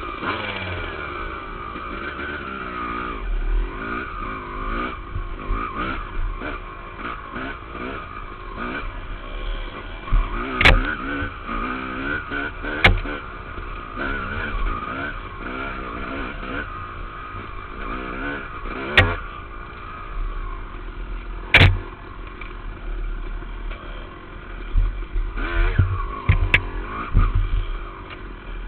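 Dirt bike engine ridden on a trail, its revs rising and falling constantly as the rider works the throttle, with about five sharp knocks along the way.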